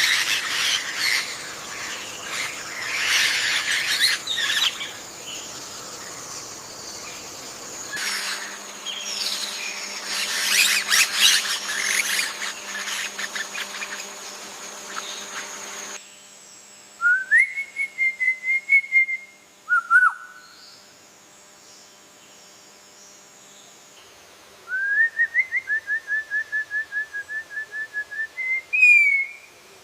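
Birds calling: first a dense chorus of overlapping chirps, then a single bird whistling two long trills, each rising at the start into a fast run of repeated notes on one pitch, with a short whistle between them.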